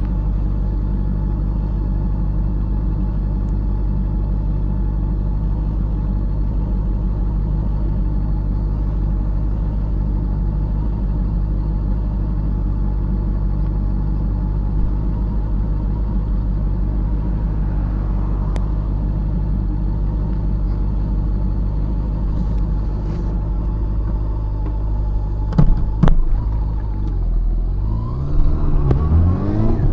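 Honda CB400SF inline-four motorcycle engine idling steadily. A couple of sharp clicks come about 26 seconds in, then the revs rise in sweeps near the end as it accelerates.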